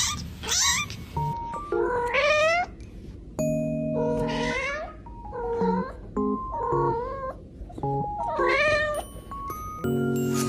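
A cat meowing repeatedly: about six drawn-out meows, each bending up and then down in pitch, with pauses between them, over light background music.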